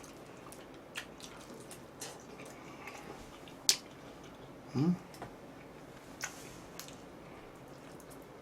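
Close-miked eating sounds from someone biting and chewing sauced yangnyeom fried chicken: scattered wet mouth clicks, one sharp click about halfway through, and a brief hummed 'mm' soon after.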